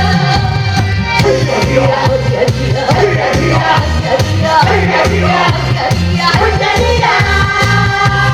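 Live band music with a steady pulsing bass beat and sustained chords, with a wavering melody line carried through the middle.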